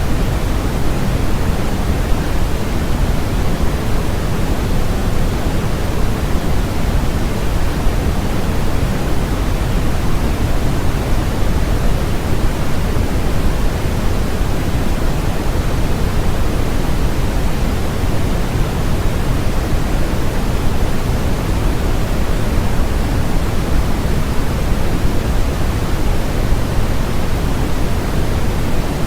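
Steady generated noise of the 'white noise' kind, an even unchanging hiss whose weight lies toward the low end, fading toward the highs, closer to pink noise than to true white noise.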